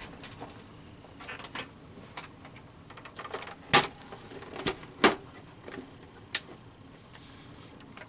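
Scattered clicks and knocks of craft tools being handled on a tabletop as a paper trimmer is picked up and set in place, with a few sharper knocks in the middle of the stretch.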